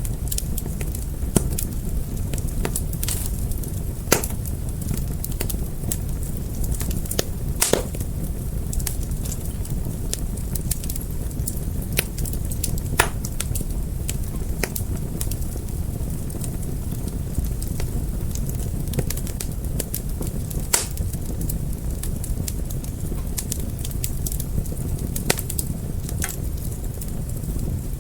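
Fire crackling: a steady low rumble of flames with irregular sharp pops and snaps, about one or two a second.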